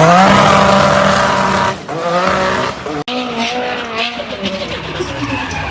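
Turbocharged car engine held at high revs, with a brief drop about two seconds in, then cut off sharply a second later; after that a quieter stretch of wavering, bending tones.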